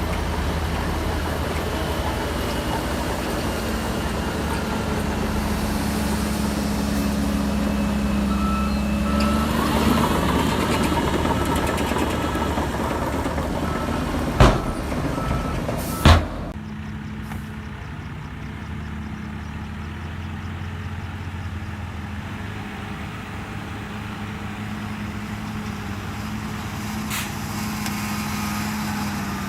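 Heavy diesel earthmoving machinery running steadily, with a reversing alarm beeping in an even rhythm for several seconds in the middle and again near the end. Two sharp knocks come near the middle, after which the engine sound turns quieter and duller.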